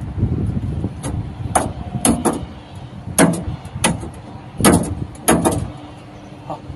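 Tractor cab gear and shuttle levers being shifted: a string of about eight sharp clicks and clunks, irregularly spaced, over a steady low rumble.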